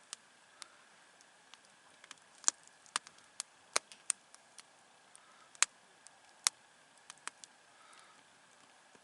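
Wood campfire crackling: irregular sharp pops, one or two a second over a quiet background, a few of them much louder than the rest.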